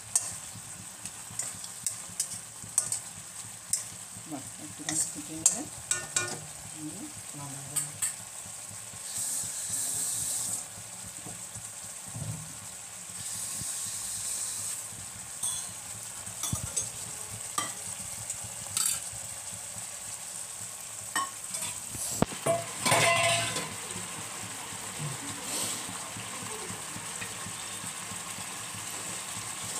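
Fish in yogurt gravy (doi rui) sizzling and bubbling in a kadai, with many sharp clicks and pops and a few louder spells of hissing.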